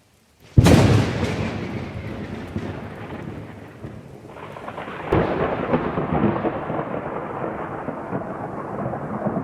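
A sharp thunderclap just over half a second in, rumbling as it slowly fades, then a second rolling peal of thunder with crackles starting about four to five seconds in.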